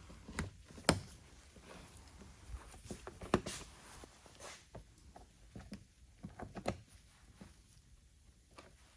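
Scattered light clicks and knocks from handling the plastic belly pan and turning its quarter-turn fasteners.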